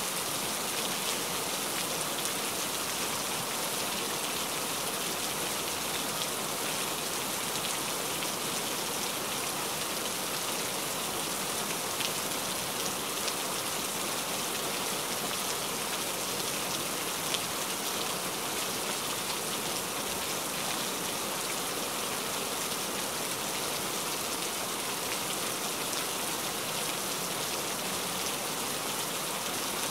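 Steady rain falling: an even, unbroken hiss with a few sharper drop ticks scattered through it.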